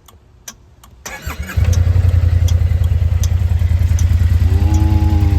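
Kymco AK550 maxi-scooter's 550 cc parallel-twin engine cranked on the starter about a second in, catching half a second later and settling into a loud, steady idle. Faint regular ticking, about three a second, comes before the start, and a higher steady tone joins the engine sound near the end.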